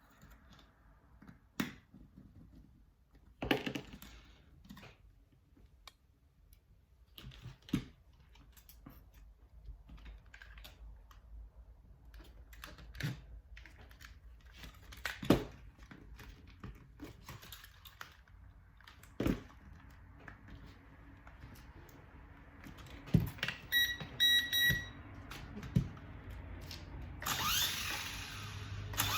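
Scattered clicks and light knocks from small parts being handled, then a quick run of short high electronic beeps about three-quarters of the way through. Near the end comes a louder whirring burst that rises in pitch.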